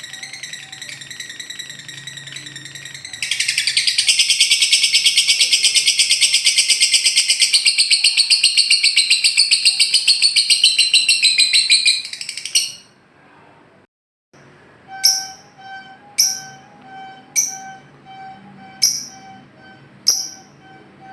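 Lovebird singing its long, rapid rattling trill (ngekek), which gets much louder about three seconds in and stops about twelve seconds in. After a short break, another call follows: a sharp chirp about once a second, six times, over a steady piping note.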